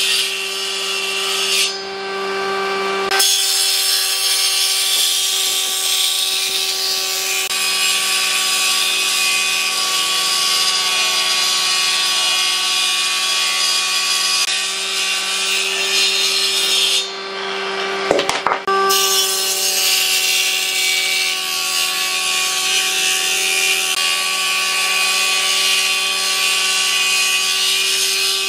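Electric power tool working wood: its motor runs at a steady pitch while the tool cuts or abrades, giving a loud scratchy hiss. The hiss lifts off briefly twice, about two seconds in and again past the middle, while the motor keeps running.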